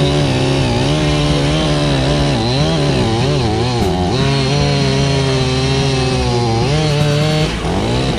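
Two-stroke chainsaw running loud at high revs, its pitch dipping and recovering again and again as it works through a cut, easing off near the end.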